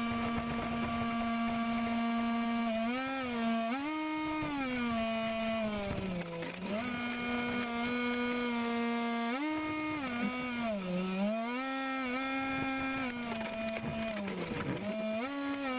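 RC air boat's motor and propeller running, a steady pitched whine whose pitch steps up and down repeatedly as the throttle is worked, with deeper dips about six and fifteen seconds in.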